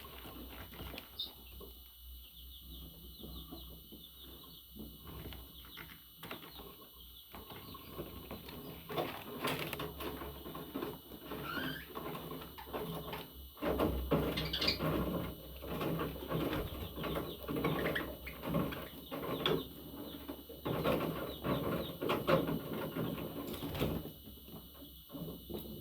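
Pet parrot chattering: a fast, dense run of chirps and clicks with a few short whistled notes, growing louder about halfway through.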